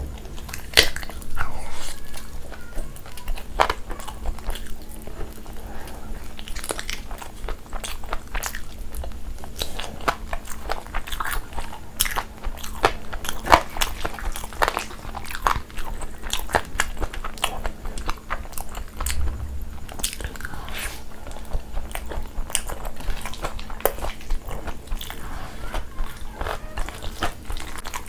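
Close-miked eating sounds: biting into and chewing a spicy fried chicken wing, with irregular crunches and wet chewing clicks throughout, over a faint steady hum.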